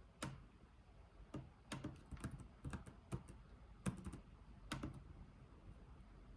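Slow typing on a computer keyboard: a dozen or so separate keystrokes, some in quick runs of two or three, stopping about five seconds in.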